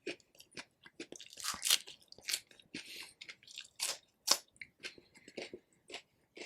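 Close-miked chewing and biting of rotisserie chicken, with repeated crisp crunches and wet mouth clicks. The loudest crunches come about a second and a half in and again just past four seconds.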